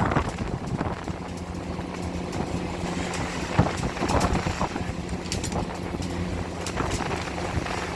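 Engine of a longline fishing boat running with a steady hum, under wind and sea noise, with a few sharp knocks.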